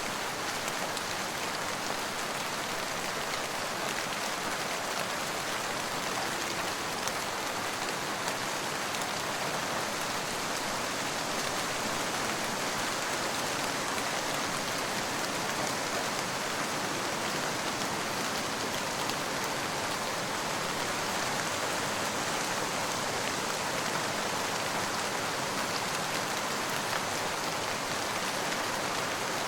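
Steady rain falling, an even hiss of drops with faint scattered patters, unchanging throughout.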